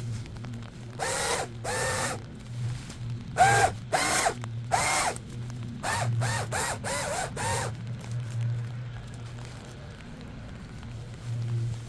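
A hand tool or small power tool working in short bursts: about ten brief whirs, each rising and falling in pitch, in quick groups, with a faster run of five near the middle. They stop a little after halfway, leaving a low steady hum.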